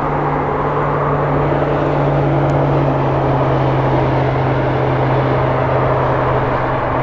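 Combine harvester running steadily while cutting wheat: a constant engine drone with a low, even hum that drops slightly in pitch about two seconds in.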